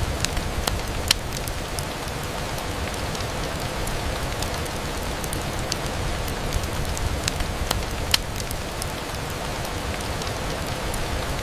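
Steady rain on a window, with scattered sharp ticks and pops over a low rumble; the two loudest pops come about a second in and about eight seconds in.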